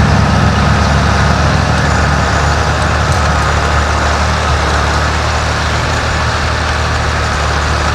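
Antique farm tractor engine running steadily at an even speed, a constant low drone.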